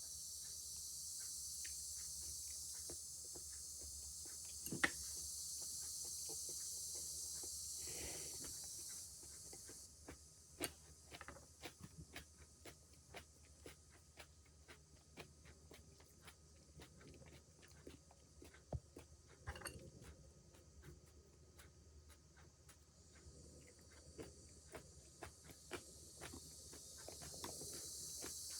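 Faint, steady high-pitched drone of a cicada chorus that cuts off about nine seconds in and returns near the end. In between, scattered soft clicks and taps.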